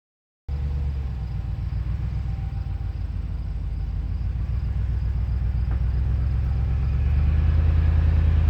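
Truck engine running: a steady, loud, low rumble that grows slightly louder toward the end, starting suddenly about half a second in.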